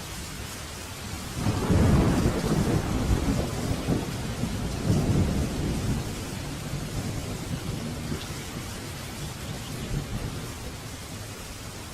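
Steady rain with a deep rolling thunder rumble that breaks in suddenly about a second and a half in, swells twice and fades away over several seconds.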